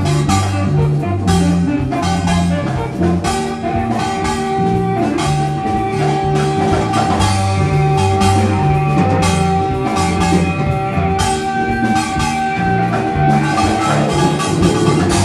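Live band playing an instrumental passage: a stepping bass line, a drum kit and guitar, with one long high note held through the middle.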